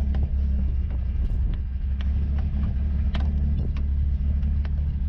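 Ford 2.3-litre turbo four-cylinder in a 1963 Volvo idling steadily, with a few light, sharp ticks over the low hum.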